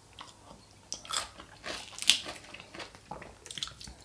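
Close-up chewing of Greek salad with crisp lettuce leaves: irregular wet crunches, the loudest about two seconds in.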